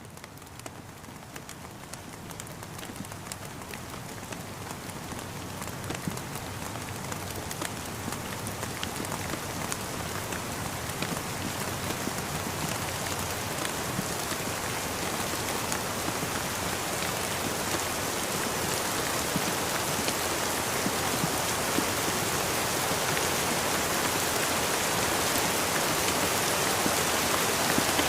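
Steady rain falling, a dense patter with many small drop taps, growing gradually louder throughout.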